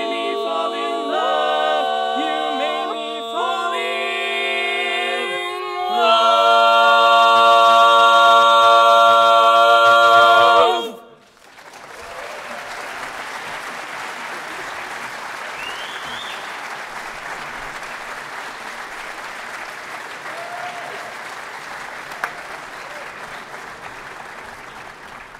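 An a cappella vocal group sings the end of a song, swelling at about six seconds into a loud held final chord that is cut off sharply about eleven seconds in. An audience then applauds steadily for the rest of the time, tapering slightly near the end.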